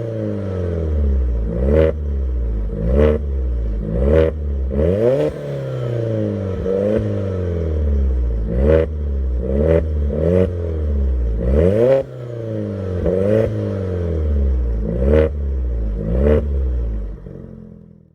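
Alfa Romeo Giulietta QV's turbocharged 1750 TBi four-cylinder, through an aftermarket turbo-back exhaust with exhaust valves, revved about a dozen times in quick blips. Each rev climbs and falls back, with a sharp crack near the top of most of them. The sound fades out near the end.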